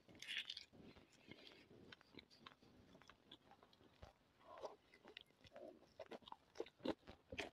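Faint mouth sounds of biting into a piece of roast chicken and chewing it: soft short clicks and smacks, more frequent in the second half.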